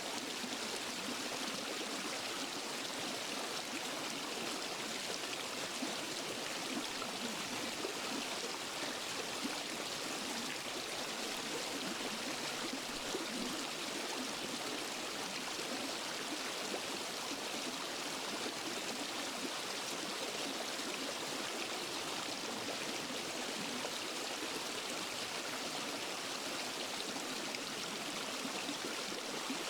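A small waterfall and forest stream, water rushing and splashing in a steady, unbroken hiss.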